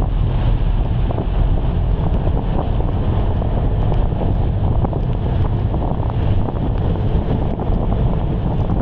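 Wind buffeting the microphone in heavy rain: a loud, steady low rumble under a noisy hiss, with many small scattered ticks.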